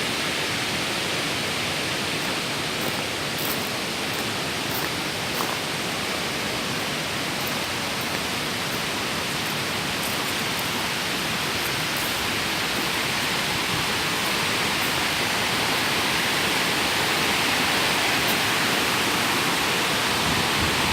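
Steady rushing of falling water from a waterfall, a dense even roar that grows slightly louder in the second half.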